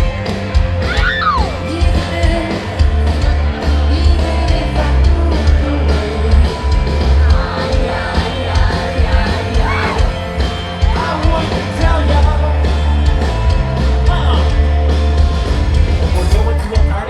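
Live rock band playing a song at full volume, with heavy bass and drums and vocals sung and shouted over it.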